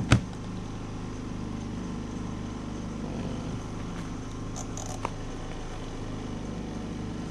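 A sharp click just after the start, then a portable washing machine's spin-dryer motor humming steadily, with a couple of faint knocks midway.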